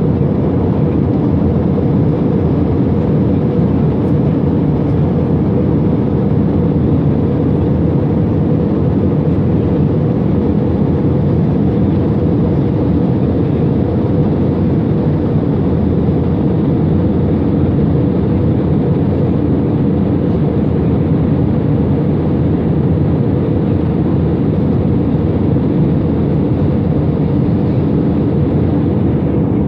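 Steady roar of an airliner's engines and rushing air, heard from inside the passenger cabin.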